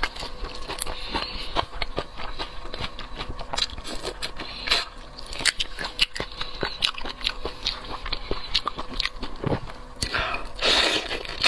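Close-miked eating of shrimp: biting, crunching and chewing, with many sharp irregular clicks and crackles.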